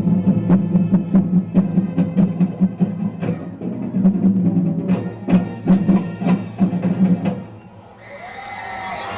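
Band music with sustained low brass-like notes over a steady drum beat, as from a marching band at a football game, stopping about eight seconds in. Crowd voices follow.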